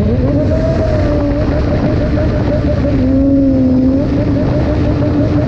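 A sport motorcycle's engine running at a fairly steady speed while riding, its pitch wavering slightly up and down as the throttle shifts, over a heavy low rush of wind noise.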